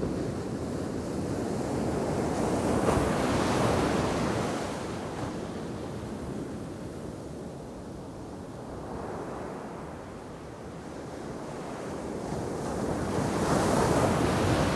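Ocean surf breaking on the shore, the wash swelling twice, once around three seconds in and again near the end, with wind buffeting the microphone.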